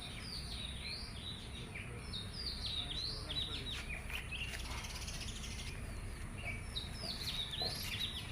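Several small birds chirping and calling back and forth in quick, short notes, over a steady low background rumble.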